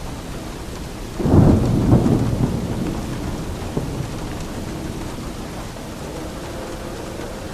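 Steady rainfall with a thunderclap a little over a second in: a sudden loud rumble that peaks twice and then dies away over a few seconds.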